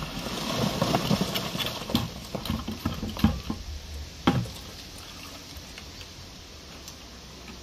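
Wet concrete being tipped and worked into a column's wooden formwork: a rush of scraping with a run of knocks, the two loudest about three and four seconds in, then it stops.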